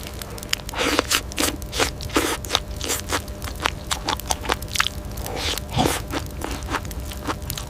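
A busy run of irregular crunching and scraping sounds, several sharp cracks a second, over a steady low rumble.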